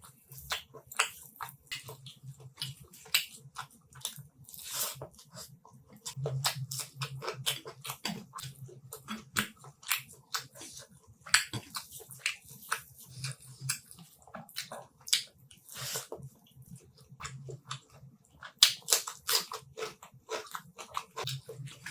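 Close-miked eating of chicken curry with rice: a steady run of wet chewing, lip smacks and crunchy bites.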